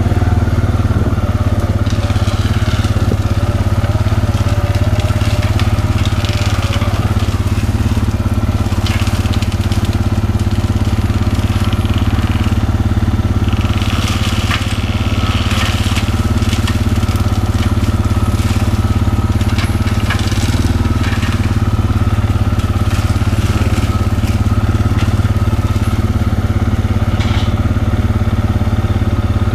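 Bobcat skid-steer's diesel engine running steadily under load while its forestry cutter head grinds through overgrown brush, with irregular crackling and snapping as the wood is chewed up.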